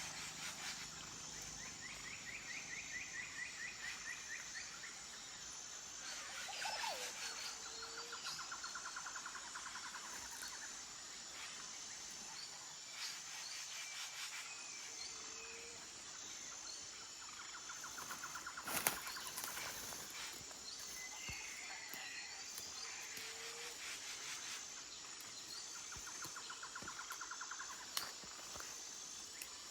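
Forest ambience: a steady high-pitched insect drone, with rattling trills of about two seconds recurring every eight seconds or so, and short, low bird-like calls every seven or eight seconds. Two sharp clicks sound, one about two-thirds of the way in and one near the end.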